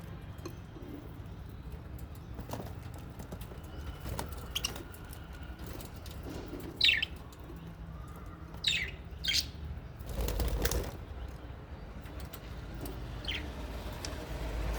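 Small aviary parrots (budgies and lovebirds) giving scattered short, sharp chirps, with a burst of wing flapping about ten seconds in, over a steady low hum.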